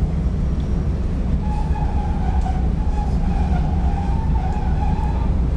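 Chicago CTA Red Line train car running, heard from inside the car: a steady low rumble, with a thin, slightly wavering high tone joining it about a second and a half in and fading near the end.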